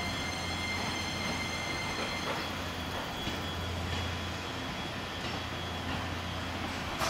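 E257 series electric train rolling slowly past on a depot test run: steady running noise of wheels on rail with a steady low hum. A brief click near the end.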